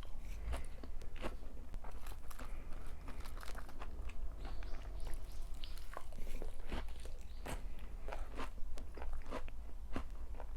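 A person chewing crunchy food close to the microphone: quick, irregular crunches and mouth clicks over a steady low rumble.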